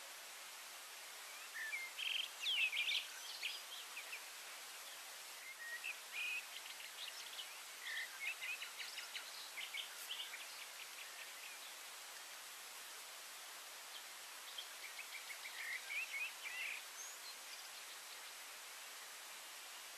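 Songbirds singing in three spells of high chirps and quick trills over a steady hiss.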